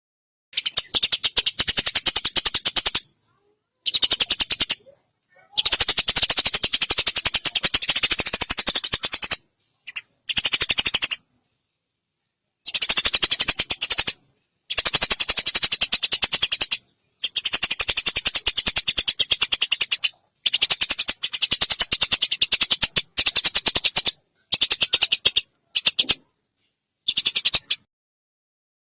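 Eurasian tree sparrows giving rapid, harsh chattering chirps in an agitated fighting bout, in about a dozen loud bursts of one to four seconds that start and stop abruptly.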